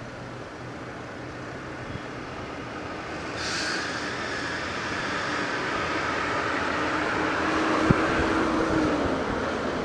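Electric train running, its noise swelling about three and a half seconds in with a short hiss, then a steady hum. A sharp clank near eight seconds is the loudest moment.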